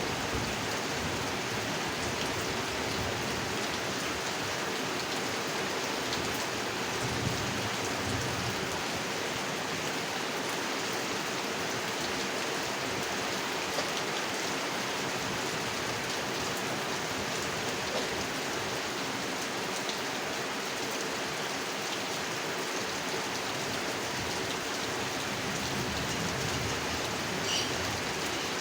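Steady rain falling on a pond and its surroundings, with drops pattering and splashing throughout.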